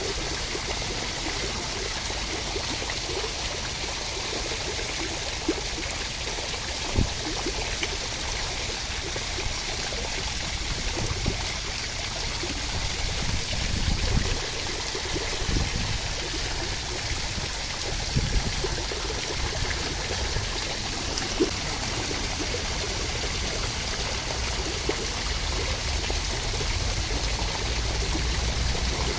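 Steady rushing water, even and unbroken, with a few short low knocks now and then.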